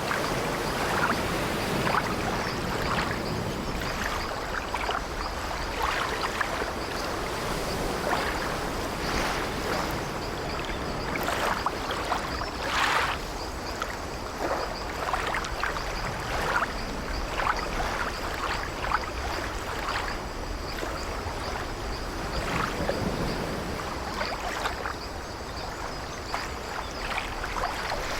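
Ambience of sea water washing and sloshing against the wooden hull of an old sailing ship, with irregular creaks of the ship's timbers, steady and unbroken.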